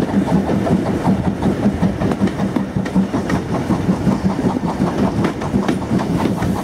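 Steam-hauled passenger train running, heard from a carriage window: a steady rumble and a fast, dense clatter of coach wheels over the rail joints.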